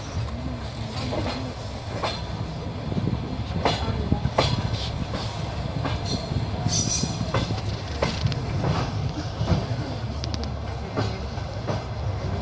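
Train rolling along the track: a steady low rumble with irregular clicks and knocks of the wheels over the rails.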